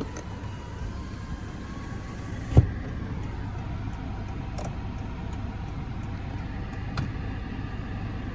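2018 Honda Accord's 2.0 L four-cylinder engine idling, a steady low hum heard inside the cabin. A single sharp knock comes about two and a half seconds in, and a lighter click near the end.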